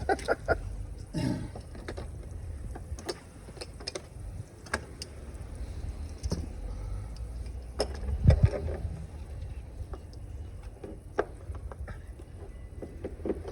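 Scattered clicks and knocks from work on water-heater piping over a steady low rumble, with a louder thump about eight seconds in.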